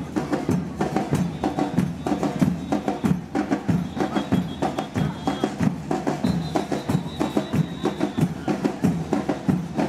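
Carnival street-band drumming: drums beat a dense, fast, steady rhythm. A high steady tone sounds over it three times.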